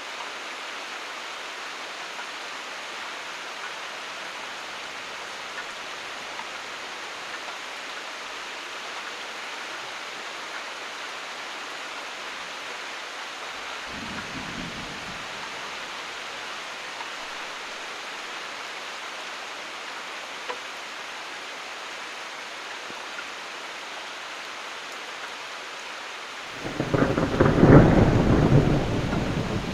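Rain falling steadily, an even hiss throughout. A faint short rumble of thunder comes about halfway through, then thunder breaks in suddenly near the end and rolls on loudly, the loudest sound here.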